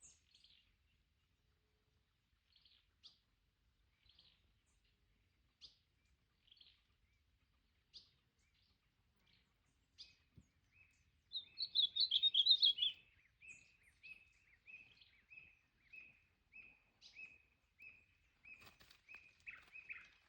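Ultramarine grosbeak (azulão) calling: scattered short, sharp chips, then a brief loud warbling song phrase about halfway through, followed by a run of short repeated notes about twice a second.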